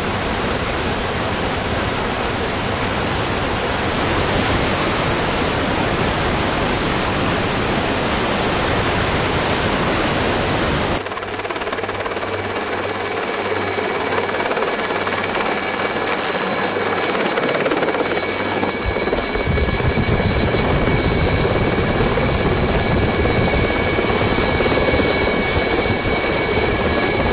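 Helicopter in flight: steady engine and rotor noise with a rush of wind. About eleven seconds in the sound changes abruptly to a steady whine with high tones, and it grows heavier and lower near the end.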